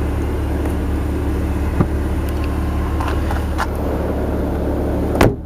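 BMW 128i's 3.0-litre inline-six idling steadily, with a few light clicks and one sharp knock near the end.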